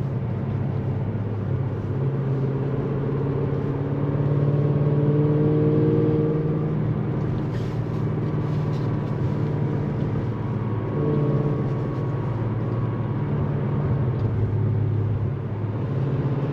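Tuned Audi S6 engine running steadily while driving, heard from inside the cabin along with road noise. The engine note swells and eases a little with light throttle changes, loudest about a third of the way in.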